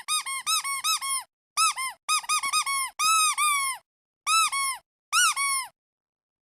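Rubber duck squeeze toy squeaking in quick runs of short squeaks, each one rising and then dropping in pitch. There are five bursts of squeaks, and they stop a little under two-thirds of the way through.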